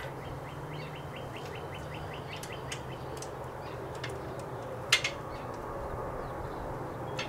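A small bird singing a fast, even trill of short high notes for about two seconds near the start, over a low steady hum. About five seconds in, a single sharp click as the stand's metal pin and swivel mount are handled.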